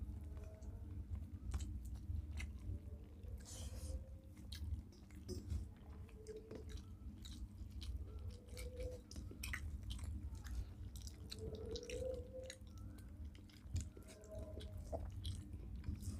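Close-up chewing and eating sounds of people eating rice and curry by hand: scattered small wet smacks and clicks, over a steady low hum.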